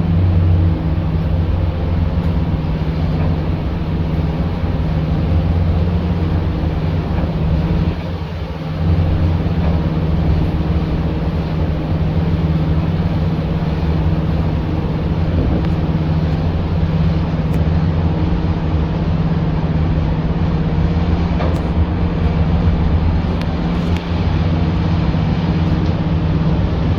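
A boat's engine running steadily while the boat is manoeuvred to dock, with a brief drop in level about eight seconds in.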